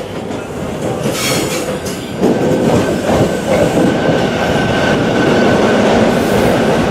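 SEPTA Regional Rail electric train coming through the station, the rumble of wheels on rail building up with a sudden jump about two seconds in. From then on a steady high-pitched wheel squeal rides over the rumble.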